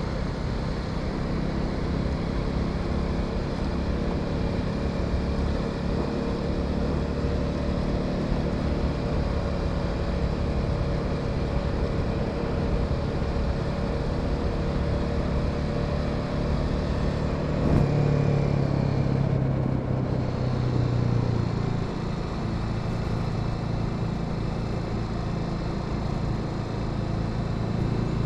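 Honda Sahara 300 single-cylinder motorcycle engine running steadily under way, with wind and road noise. About two-thirds of the way through, the engine note briefly rises, then falls away over a few seconds as the bike eases off.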